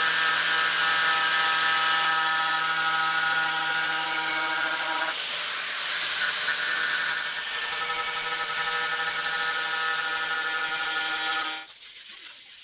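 A power tool's electric motor running steadily with a hiss, cutting off suddenly near the end.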